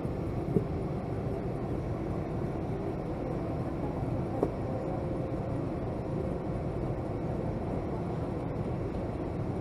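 Steady low cabin hum inside a Boeing 757-200 parked before pushback, the air-conditioning and ventilation running, with two brief sharp clicks, about half a second in and again about four and a half seconds in.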